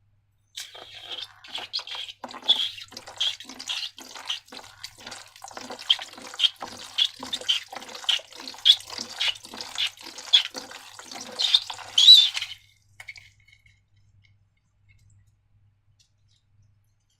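Sticky slime squelching as it is worked, in a steady rhythm of about two squishes a second, stopping about twelve seconds in.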